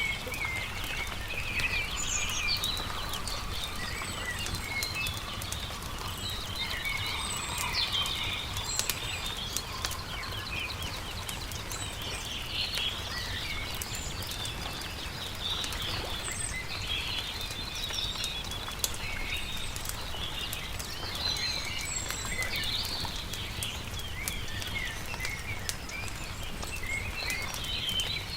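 Songbirds chirping and twittering throughout, over a campfire crackling with scattered small pops.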